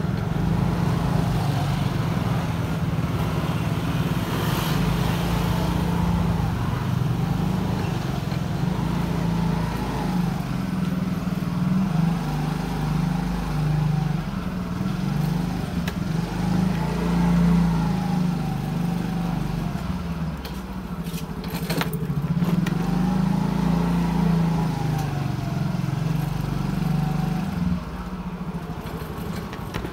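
Motorcycle engine running while riding, its pitch rising and falling with the throttle, with a few sharp clicks about two-thirds of the way through.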